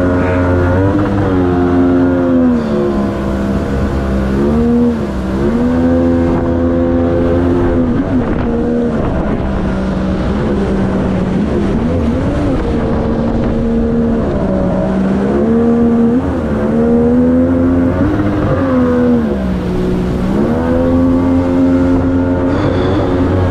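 Outboard jet motor on an inflatable boat running under way, its pitch dipping and rising again several times as the throttle is eased and opened.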